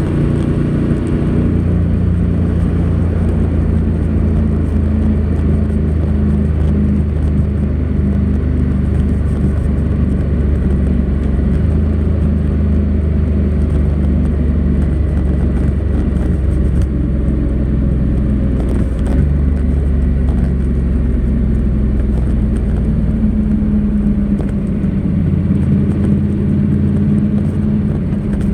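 Honda NC700X's 670 cc parallel-twin engine, stock exhaust, running steadily at low revs under way. The note steps down in pitch about a second and a half in and changes pitch several more times.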